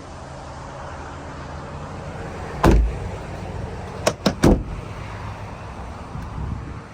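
A 2022 Ford Bronco's door is shut with one solid thump about a third of the way in. Three quick sharp clicks follow a second and a half later, over a low steady hum.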